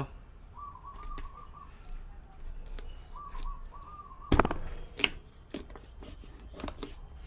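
Kitchen knife cutting a whole goatfish on a wooden cutting board: scattered clicks and taps, with one loud knock about four seconds in as the blade goes through to the board. A bird calls twice in the background with a short warbling phrase.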